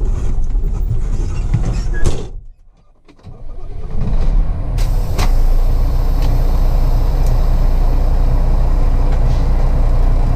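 Tractor-trailer truck's diesel engine running steadily, a low rumble. The sound drops out for about a second, some two and a half seconds in, then comes back.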